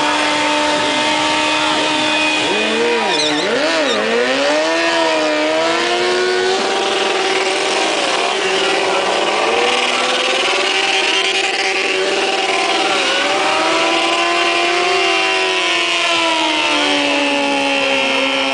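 Two motorcycle engines held at high revs during a burnout, their pitch dipping and recovering a few times, over a steady hiss.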